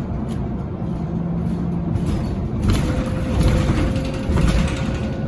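Scania Citywide LF city bus running under way with a steady low engine rumble. A steady whine sets in about halfway through, and rattly road noise swells with a couple of jolts.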